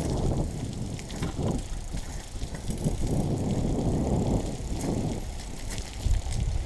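Bicycle being ridden: an uneven low rumble that swells and fades, with scattered light clicks and rattles.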